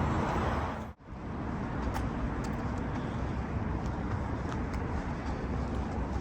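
Town-centre street ambience: steady traffic noise with a low rumble and faint scattered ticks, cut by a sudden brief dropout about a second in.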